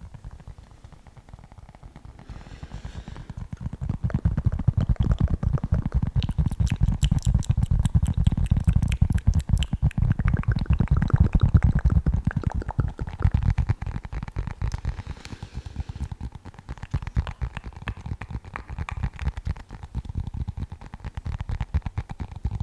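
Fast, continuous tapping and scratching on a small object handled right against the microphone, a dense run of quick clicks over a heavy low rumble. It builds up a few seconds in, is loudest through the middle and eases off toward the end.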